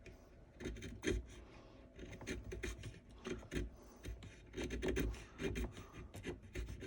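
Small hand chisel paring and chipping wood out of a wooden rifle stock, a run of short, irregular scraping cuts.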